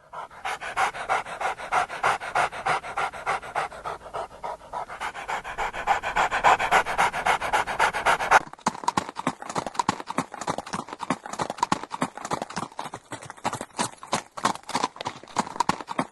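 A dog panting rapidly, about five breaths a second, with the run changing suddenly about eight seconds in.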